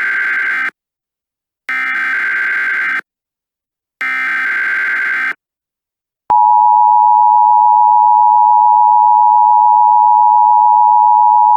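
Emergency Alert System SAME header: three harsh, buzzing digital data bursts, each a little over a second long and a second apart. About six seconds in comes the loud, steady, high EAS attention tone, which signals the start of an emergency alert.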